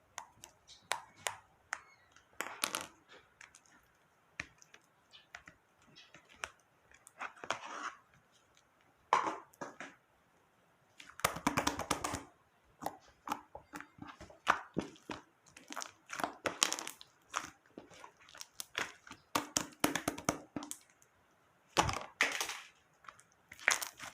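Slime being pressed, poked and stretched by hand, giving irregular crackles and wet pops, some in quick runs.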